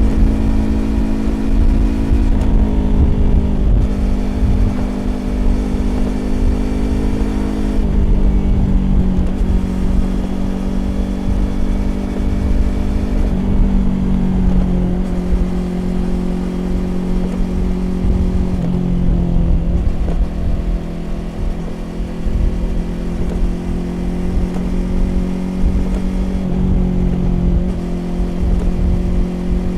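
A Yamaha YZF-R25's parallel-twin engine through a Prunus aftermarket exhaust, running at steady cruising revs. The note dips and comes back several times, with brief throttle lifts.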